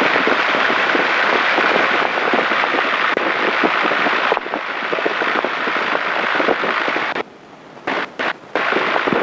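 Steady, crackly cabin noise of a light training airplane taxiing, its engine and propeller heard in the cockpit. The sound drops out suddenly for under a second about seven seconds in, then cuts out briefly again twice near the end.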